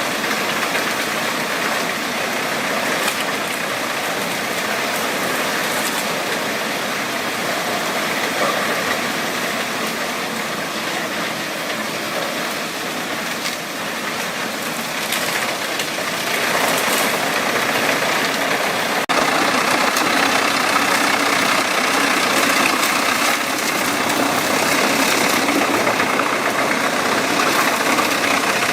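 Wood chipper running, a dense steady machine noise from its engine and cutting drum. About two-thirds of the way through it changes abruptly to a louder, brighter run.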